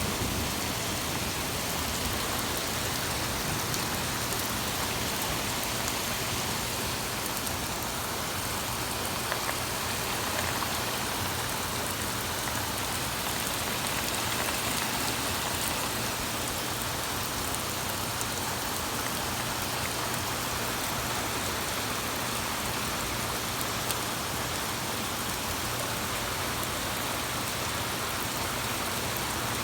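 Torrential rain pouring down steadily in a heavy thunderstorm downpour, a dense even hiss of rain hitting surfaces.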